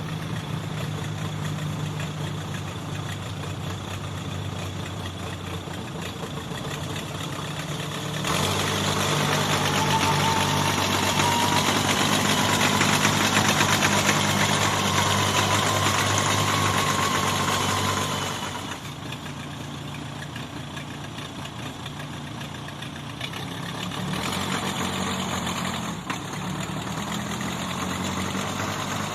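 An engine idling steadily. It runs louder for about ten seconds in the middle, with a faint whine that rises and falls, then settles back to idle.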